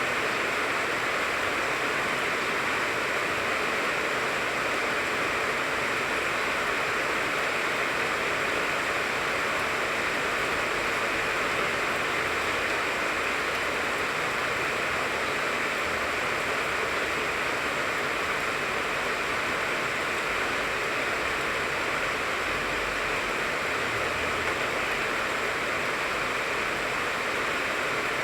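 Steady rain falling on a tangerine tree: an even, unbroken hiss with no single drops or other sounds standing out.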